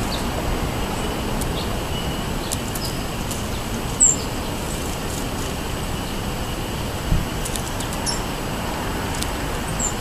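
Steady background traffic noise with a few short, high bird chirps, the sharpest about four seconds in and another near the end, and a dull thump around seven seconds in.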